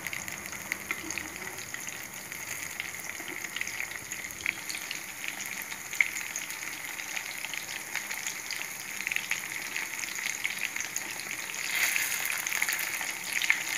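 Breadcrumb-coated paneer strips deep-frying in hot oil in a pan: a steady sizzle with small crackling pops and a sharp click about halfway. It grows louder near the end as tongs turn the strips in the oil.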